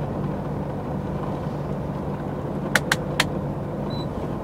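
Truck engine and road noise running steadily inside the cab, with three sharp clicks in quick succession a little under three seconds in.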